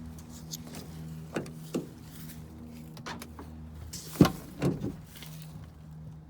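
Clicks and knocks from a pickup's rear seat being lifted up and latched, with one loud thump about four seconds in and a couple more knocks just after, over a steady low hum.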